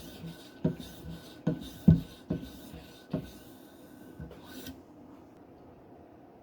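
Knife blade drawn in strokes across a hard polymer strop charged with diamond emulsion and oil, a scraping rub with each pass. The strokes stop about three-quarters of the way through.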